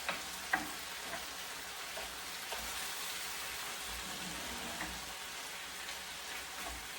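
Chicken, carrot and shiitake mushrooms sizzling steadily in oil in a pan, with a few scattered light clicks.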